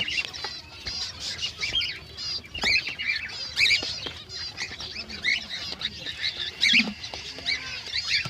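Many small finches chirping and calling at once, a dense, continuous chatter of short high calls, with a few sharp clicks among them.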